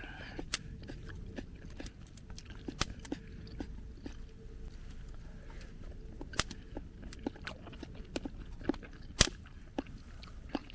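A person chewing a mouthful of sukiyaki shiitake mushroom, with scattered sharp clicks throughout.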